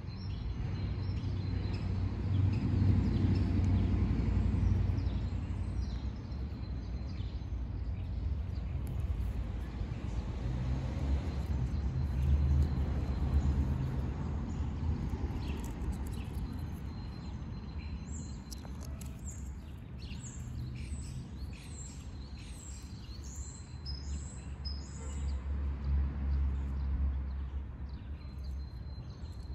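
Outdoor background noise: a steady low rumble that swells and fades a few times, with birds chirping, including a quick run of short high chirps in the second half.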